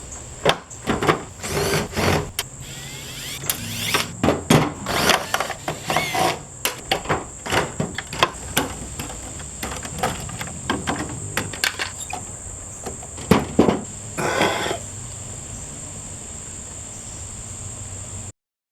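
Irregular knocks, clanks and rattles of hand tools and metal parts as an air conditioner is taken apart for scrap, over a steady high whine and a low hum. The sound cuts off suddenly near the end.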